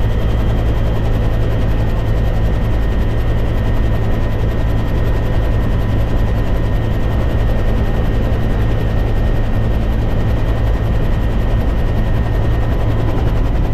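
Helicopter running steadily, a loud, even rotor and engine rumble with no change in level.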